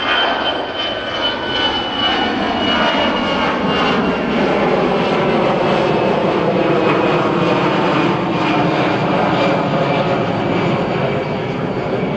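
Jet airliner's engines at takeoff power passing close by: a loud high whine and lower tones that slide steadily down in pitch as it goes past.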